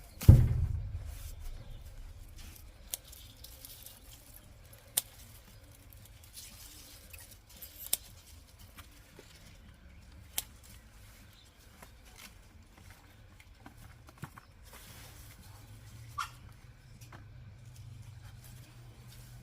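A loud thump just after the start that fades away. Then a handful of single sharp clicks, several seconds apart, over a faint low hum.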